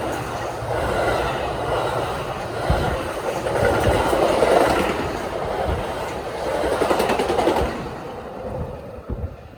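A train rolling past on the tracks with a steady rumble of wheels on rail, dying away near the end.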